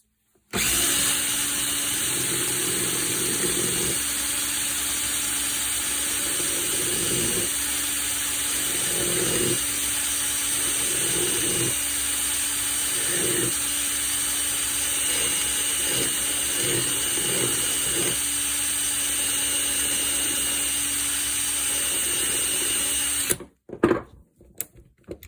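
Cordless drill running steadily for about 23 seconds, spinning a steel cap-head socket screw while a file is held to its edge to turn it down to size, like on a lathe. The sound swells irregularly as the file bears on it. The drill then stops and a few light clicks follow.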